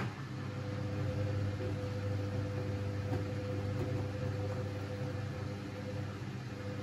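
Siemens Siwamat 6143 washing machine running a boil wash: a click right at the start, then a steady machine hum with a higher steady whine that sets in about half a second in.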